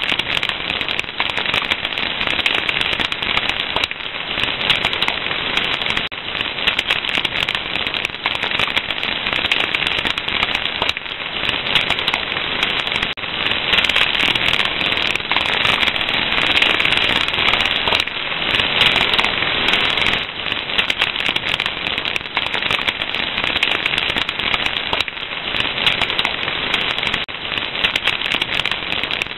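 Wood fire crackling, with many sharp pops and snaps over a steady hiss.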